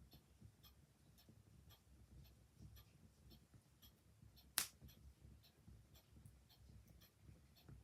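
Faint, steady ticking of a clock over the low sound of a quiet wood fire, with one sharp crackle from the fire a little past halfway.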